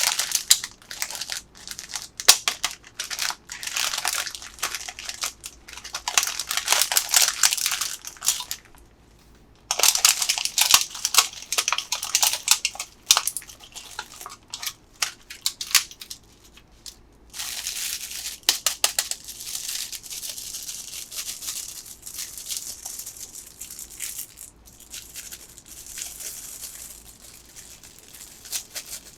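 Candy bags and wrappers being crinkled and torn open by hand: dense crackling and rustling, with a brief pause about nine seconds in and softer crinkling in the latter part.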